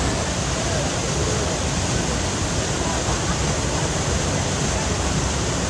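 Steady, even noise of a waterfall's falling water.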